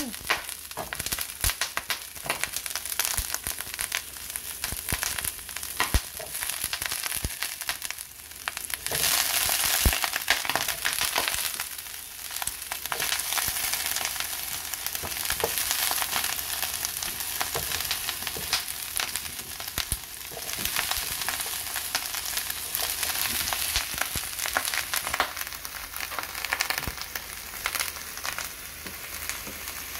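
Cauliflower florets sizzling and crackling in about a tablespoon of hot extra virgin olive oil in a frying pan, with more florets being dropped in. The sizzle swells for a couple of seconds about nine seconds in.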